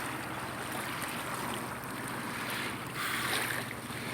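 Boat passing on the river, its engine a steady low drone, with wind noise over the microphone.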